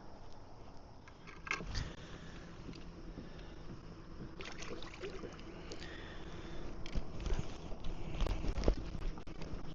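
Knocks, clicks and rattles of gear handled on a plastic fishing kayak, with low rumbling, loudest a couple of seconds from the end, over a faint steady hum.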